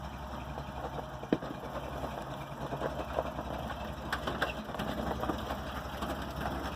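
An off-road vehicle's engine running slowly with an even rhythm, with a sharp knock about a second in and a few lighter clicks a few seconds later.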